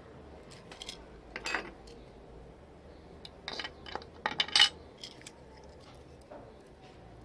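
A series of light, irregular clicks and clinks of small hard parts being handled, the loudest a little over halfway through.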